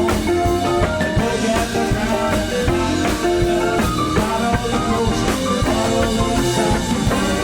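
Live rock band playing an instrumental passage with no vocals: electric guitars, bass, keyboards and a drum kit keeping a steady beat.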